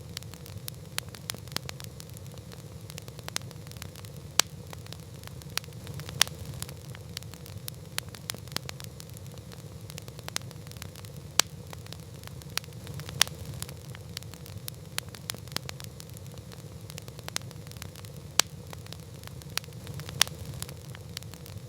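Campfire crackling: a steady low rumble of burning wood with frequent, irregular sharp pops and snaps, a few of them much louder.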